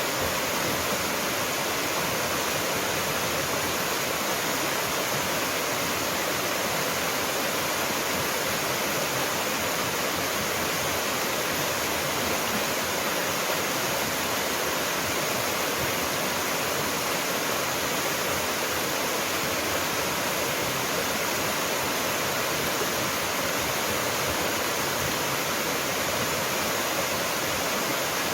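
A waterfall's water pouring and splashing in a steady, unbroken rush.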